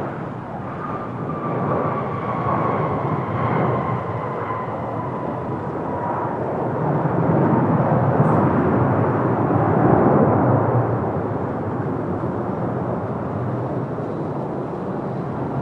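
Boeing 737-900ER airliner's CFM56-7B jet engines during landing: a steady rush of jet noise with a high engine whine that slowly falls in pitch. The noise swells louder about seven to eleven seconds in, then settles, with strong wind buffeting the microphone.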